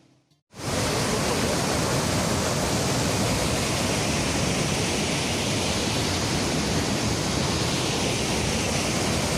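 Waterfall: a steady rush of falling water that starts abruptly about half a second in.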